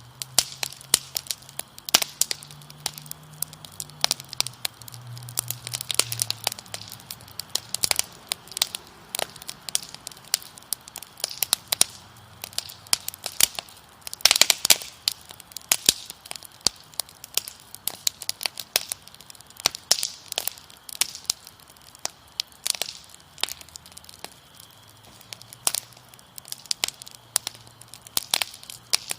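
Wood fire crackling, with irregular sharp pops and snaps throughout and a dense flurry of crackles about halfway through.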